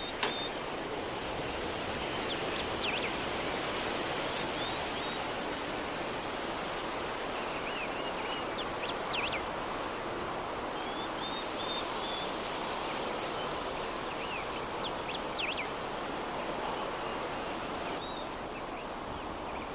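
Soft breeze blowing steadily, with small birds chirping now and then in short runs of high notes and quick whistled glides.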